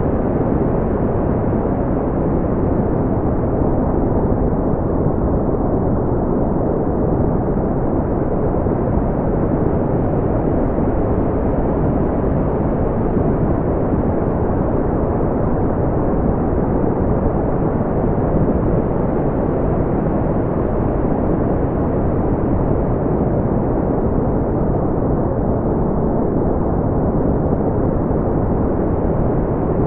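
Steady brown noise: an even, deep rumbling hiss, with most of its energy low down and little above a few thousand hertz, unchanging throughout.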